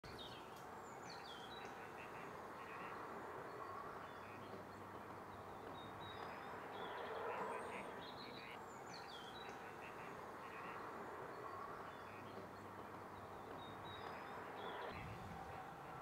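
Faint birdsong from small birds: short high chirps and whistled falling notes at intervals, over a steady outdoor background hiss.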